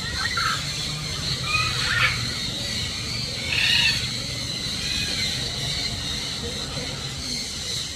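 Birds calling: short arched squawks that come every second or two, over a steady high whine and a low hum.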